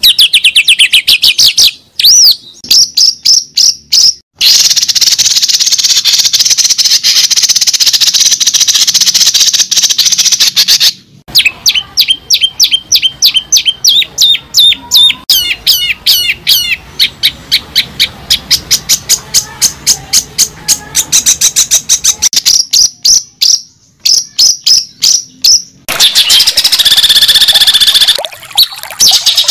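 A bird singing close by: fast runs of high chirps and trills, broken by a few short pauses.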